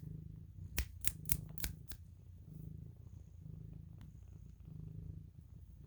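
Domestic cat purring close by, the low purr swelling and fading about once a second with each breath. A few sharp clicks come in the first two seconds.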